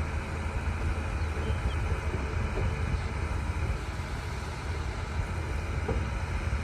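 D60 bulldozer's diesel engine running steadily, with a few faint knocks over its low drone.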